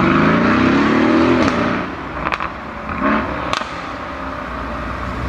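Mercedes-AMG car engine revving, its pitch rising for the first second or so before the throttle closes and it drops away. Two sharp exhaust cracks and a short throttle blip follow.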